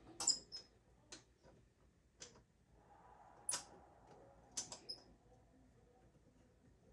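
Scattered light clicks and knocks of hand tools and a clamp being handled at a workbench, about seven sharp ticks spread irregularly over several seconds.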